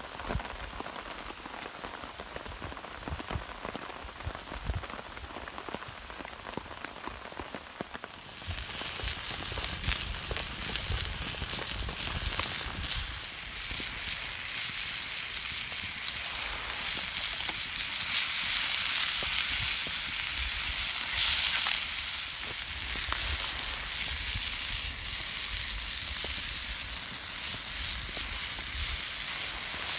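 Light rain pattering, then about eight seconds in a loud sizzling starts suddenly as food begins frying over a campfire, and keeps sizzling steadily, swelling a little around the middle.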